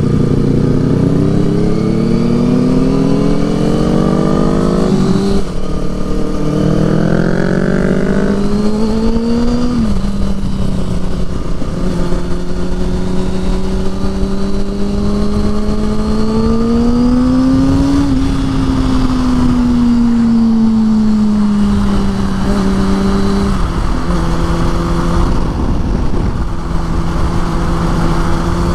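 Motorcycle engine accelerating through the gears: the revs climb and drop sharply at two upshifts in the first ten seconds, then settle to a steady cruise, rising and easing off again around the middle, over low wind noise.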